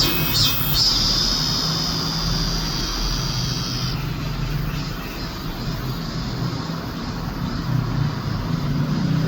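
Cicada buzzing, a high steady drone that stops abruptly about four seconds in, over a steady low background rumble.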